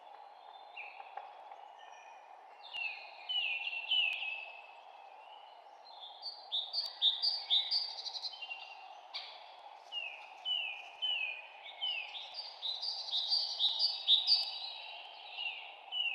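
Songbirds singing in phrases of short, quickly falling chirps, quiet at first and then coming thick and fast through the second half, over a steady low background hiss.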